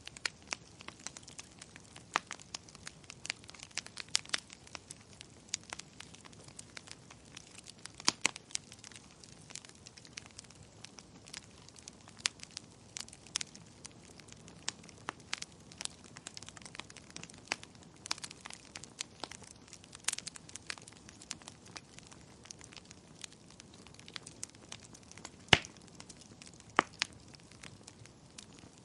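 Wood fire in a fireplace crackling: irregular sharp snaps and pops over a soft hiss, with one louder pop near the end.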